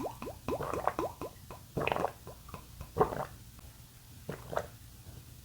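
Close-miked wet chewing and mouth clicks of someone eating a BLT sandwich. There is a quick run of small squelchy clicks at first, a few louder squishes a couple of seconds in, then they thin out.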